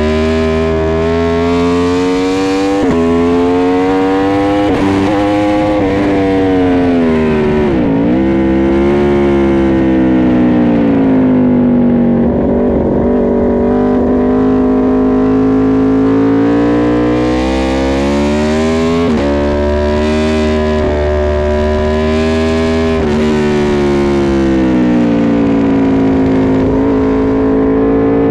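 Aprilia RSV4 RF's V4 engine at speed on a racetrack, its note climbing under acceleration and dropping sharply for braking and downshifts, with quick breaks at the gear changes. It is heard on board with a low rush of wind.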